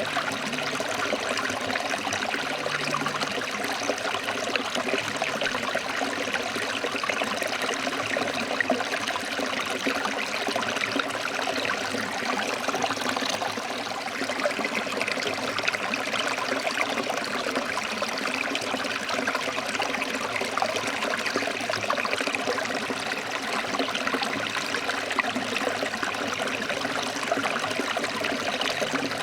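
Forest stream flowing over rocks: a steady rush of water with fine splashing and trickling.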